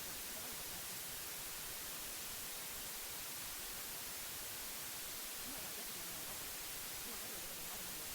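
Steady white noise, an even hiss brightest in the high end, masking faint traces of a voice buried beneath it: the subliminal spoken affirmations.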